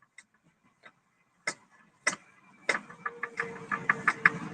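Sharp clicks: a few scattered ones at first, then a quick run of about four a second from a little past halfway, over faint noise and a low steady hum.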